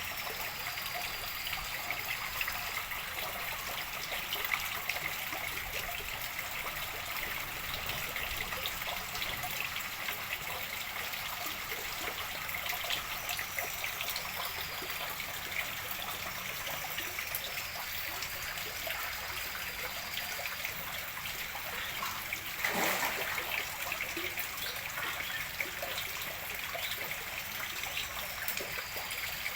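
Water running into a fish pond as it is refilled after cleaning: a steady trickling splash, with a brief louder surge about two thirds of the way in.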